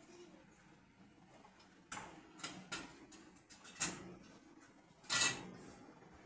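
A handful of short clattering, scraping knocks of small objects, the loudest and longest about five seconds in.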